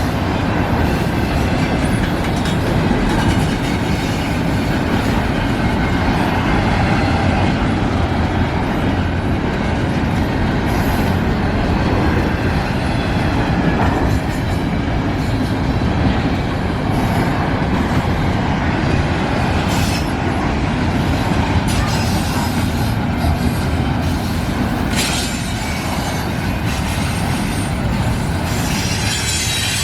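Intermodal freight train rolling past: a steady, loud rumble of steel wheels on rail from the container cars, with a few sharp clicks.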